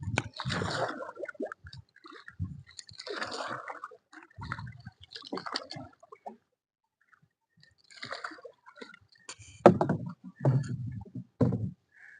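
Water splashing and sloshing in irregular bursts as a fishing net is worked in the water, with three sharp knocks near the end.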